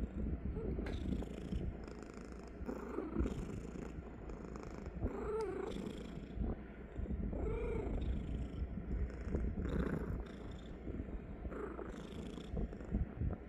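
Car engine idling with a steady low rumble, revved up and back down briefly a few times.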